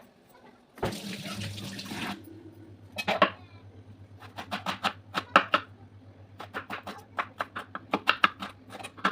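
Water running from a tap for about a second, followed by a string of sharp, irregular clicks and knocks over a low steady hum.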